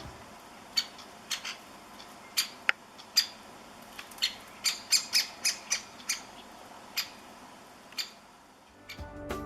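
Great spotted woodpecker giving its sharp, short 'kik' calls, about sixteen of them at an irregular pace that quickens in the middle.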